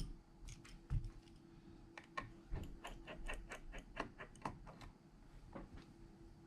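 Light, irregular clicks and taps of small hand tools on phone parts, coming several a second in the middle of the stretch, over a faint steady hum.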